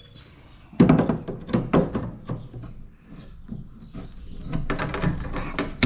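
Metal parts of a window air-conditioning unit clanking and knocking as it is dismantled, with a loud knock about a second in followed by a string of smaller clatters.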